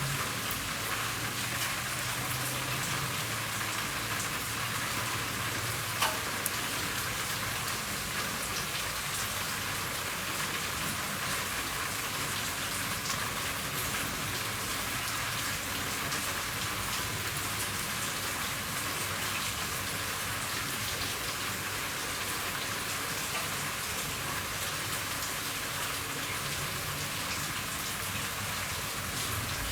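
Steady rain falling on a roof: an even hiss with scattered drops ticking, and one sharper drip about six seconds in.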